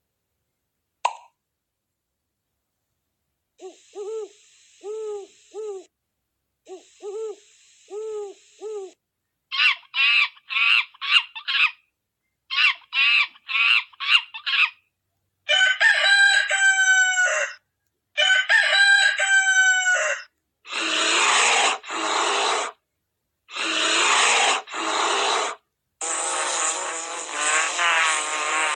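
A run of recorded bird and fowl calls, one kind after another, each repeated in short bouts: pairs of arched calls, then rapid high chirps, then longer calls that slide in pitch, then harsher, noisier calls in pairs near the end.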